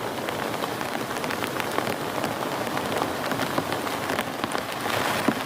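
Heavy rain falling steadily, with many sharp individual drop strikes over a dense, even hiss.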